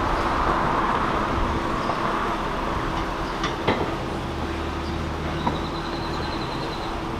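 Car driving on the road, heard from inside the cabin: steady road and engine noise, with a few light clicks.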